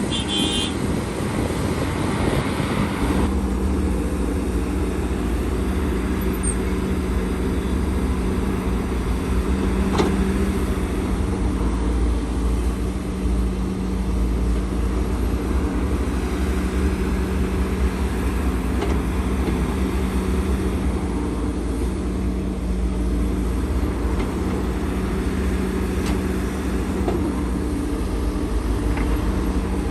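Heavy diesel earthmoving machinery running steadily, a constant engine hum over a low rumble, with a brief extra hissing rush in the first three seconds.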